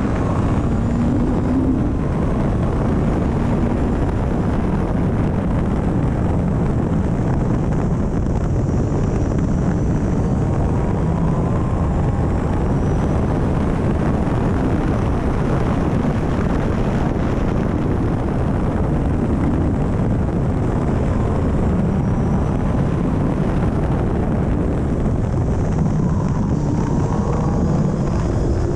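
Caterham CSR260's 2.3-litre four-cylinder engine at speed on track, its pitch rising and dropping again and again as it revs out through the gears and backs off, under a steady rush of wind on the open car's onboard microphone.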